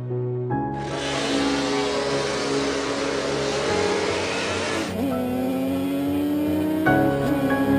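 Racing motorcycle engines running and revving together under steady background music, cutting off abruptly about five seconds in. After that an engine note rises slowly in pitch beneath the music.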